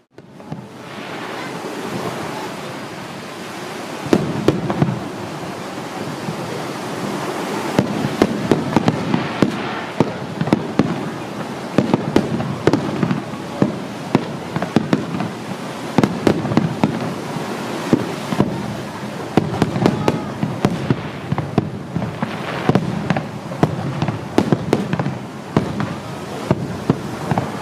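Fireworks bursting in rapid succession: a dense crackle of many sharp pops and bangs, which thickens about four seconds in and keeps going.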